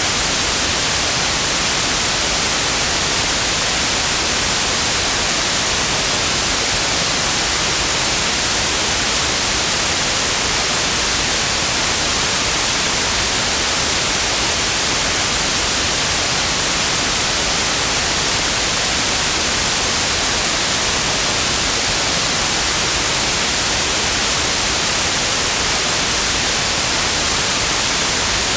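Electronically generated white noise: a steady, even hiss with nothing else in it.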